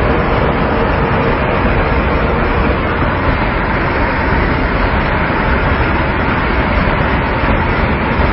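Steady road noise of moving vehicles: an even rush of tyres and engines with a low rumble, unbroken throughout.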